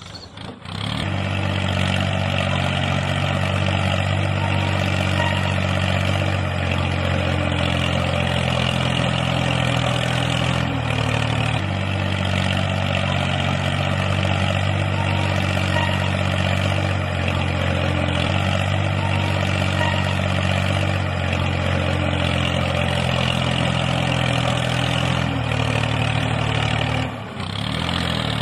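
Mini tractor running steadily: a loud engine-like drone that starts about a second in, shifts pitch slightly now and then, and dips briefly near the end before picking up again.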